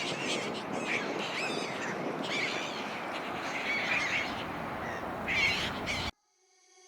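Black-headed gulls giving repeated short harsh calls over a steady background hiss. The sound cuts off suddenly about six seconds in.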